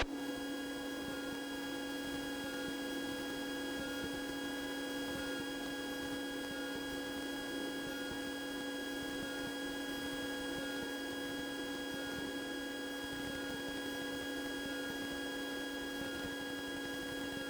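Steady electrical hum with a few overtones, even in pitch and level throughout, over faint hiss.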